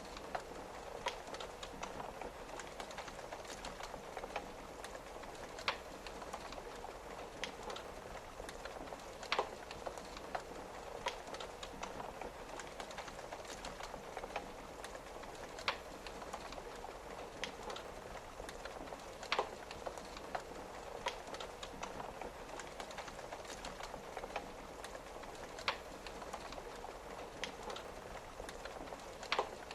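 Wood fire crackling, with a sharp louder pop every few seconds, over a steady patter of rain on a window.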